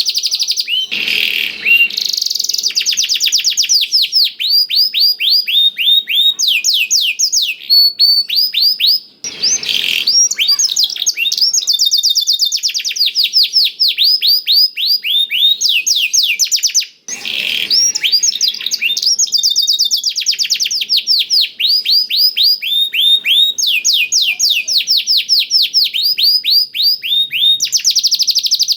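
Domestic canary singing a long, continuous song of fast trills of repeated down-slurred notes, its song filled with phrases learned from a blackthroat (black-throated canary), with two brief breaks.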